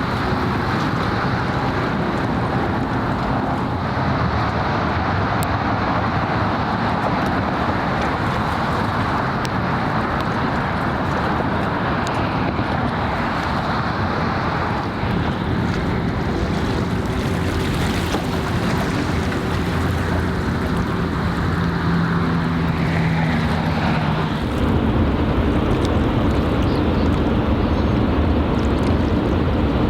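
Harbour ambience: wind noise on the microphone over the steady drone of a boat's engine, with faint steady tones coming and going. About 25 seconds in, the low engine drone gets louder.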